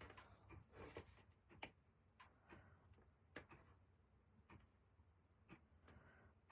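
Near silence, with faint, irregularly spaced small clicks and taps from hands handling felt and craft materials.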